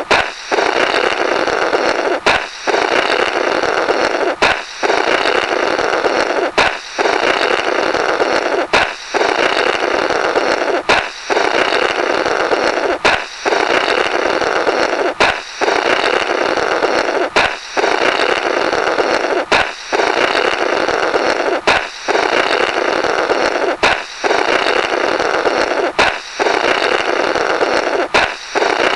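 Comic "blorrrt" sound effect: a balloon pops with a sharp crack, then someone blows through the burst rubber in a long rasping blurt of about two seconds. The pair repeats about every two seconds, some thirteen times.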